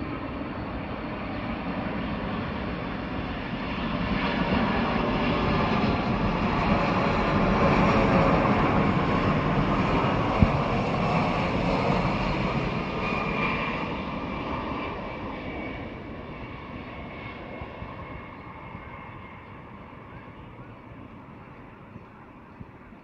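Jet airliner on landing approach passing close by: the engine roar swells for about eight seconds, peaks, then fades steadily away. A single sharp click comes near the loudest point.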